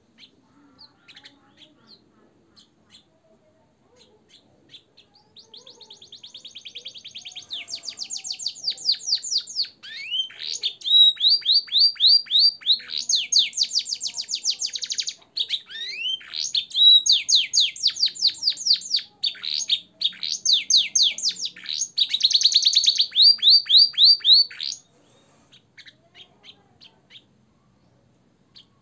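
Domestic canary singing a long song of rapid trills, its repertoire filled with blackthroat and sanger phrases. After a few faint scattered chirps, the song starts about five seconds in, swells into loud runs of quickly repeated notes that change from phrase to phrase, and stops abruptly near the end, followed by a few soft chirps.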